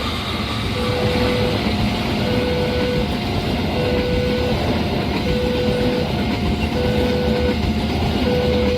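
A train passing over a level crossing, with the crossing's electronic warning bell sounding a repeating two-note chime about every one and a half seconds.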